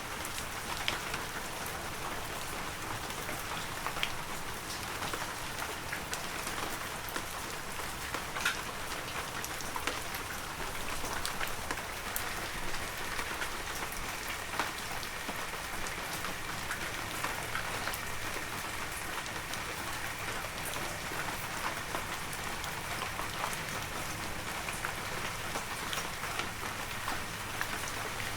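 Heavy rain falling steadily in a forest, a dense hiss with many single drops ticking sharply close by.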